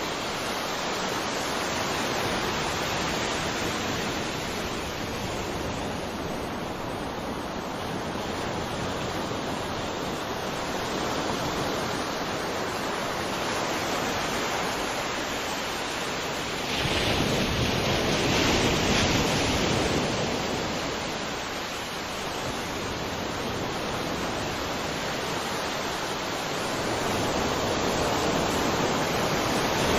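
Sea waves washing onto a shore: a steady rush of surf that swells louder about two thirds of the way through and again near the end.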